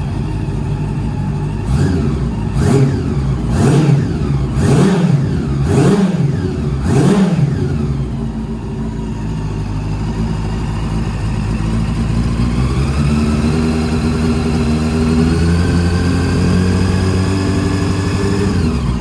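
Honda CB400 Super Four VTEC Spec3's inline-four engine running through a Moriwaki full exhaust. It idles, is blipped six times in quick succession and drops back to idle, then is revved up slowly and held at rising revs.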